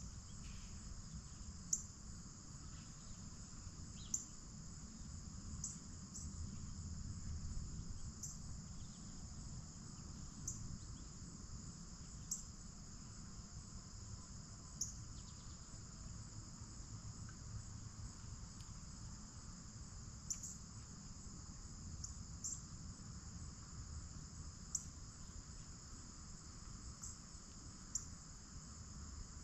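Steady chorus of crickets and other insects, a continuous high-pitched trilling, with short sharp ticks every couple of seconds.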